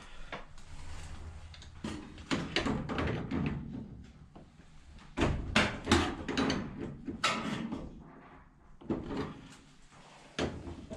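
Irregular clunks, clicks and rattles of hands handling hose fittings, as water inlet hoses are screwed back onto a washing machine's plastic fill valve.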